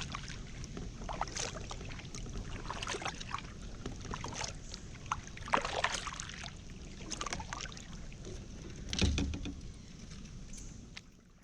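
Kayak paddle strokes, the blade splashing in the water about every second and a half, over a steady low rumble. A low thump comes about nine seconds in.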